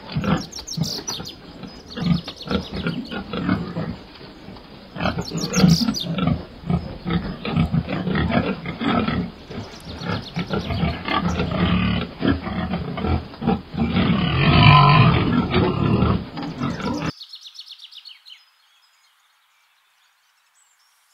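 Pigs grunting and snuffling as they root and eat from straw-covered ground. The irregular grunts and snuffles stop abruptly about three-quarters of the way through, leaving near silence.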